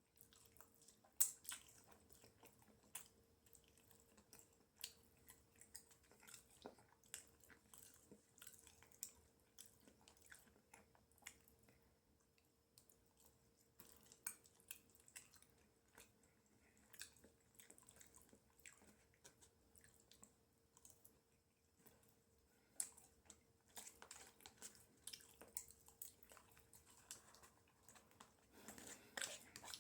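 A person chewing and eating fries close to the microphone: faint, irregular wet clicks and smacks of the mouth, with no speech. A faint steady hum runs underneath.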